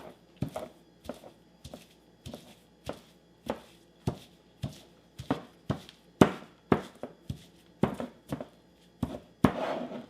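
Pestle pounding cilantro and spices in a mortar, with evenly spaced knocks a little under two a second.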